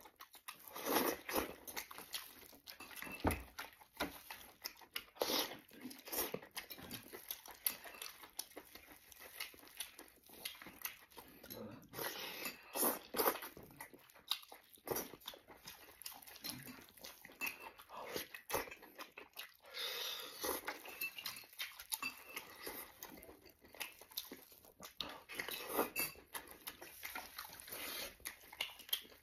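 Close-miked eating: a man chewing and smacking on clear-stewed lamb leg meat, with wet tearing and squelching as gloved hands pull the meat apart. The sounds come as many short, irregular bursts.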